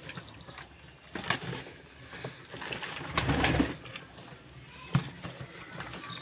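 Domestic pigeons cooing, with scattered sharp clicks and a louder, noisier burst about three seconds in.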